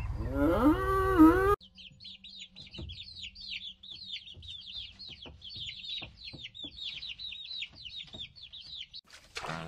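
A cow mooing, one long call rising and falling in pitch, cut off suddenly about one and a half seconds in. Then a brood of young chicks peeping non-stop: many quick, high, falling peeps overlapping one another.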